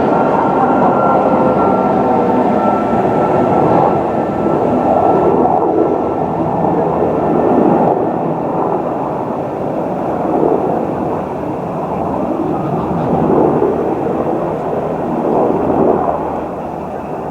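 Train running past at close range: a loud, steady rumble of wheels and running gear, with a faint whine in the first few seconds, easing off a little near the end.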